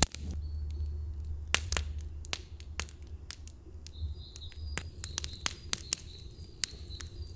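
Wood fire crackling in a campfire pit, with irregular sharp pops and snaps.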